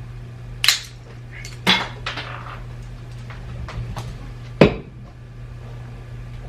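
Parts of a disassembled iDrive controller clattering as they are handled and set down on a hard surface: three sharp clacks, about a second in, near two seconds and around four and a half seconds, with lighter taps between, over a steady low hum.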